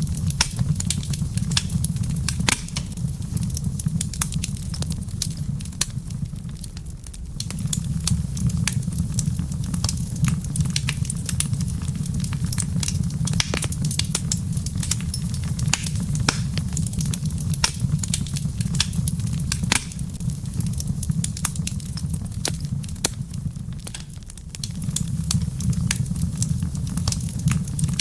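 Wood fire crackling in a fireplace: frequent sharp pops and snaps over a steady low rumble, which briefly drops away twice.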